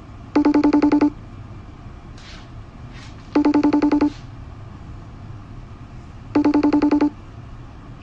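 Electronic telephone ringer trilling: three short warbling rings, each about two-thirds of a second long, about three seconds apart.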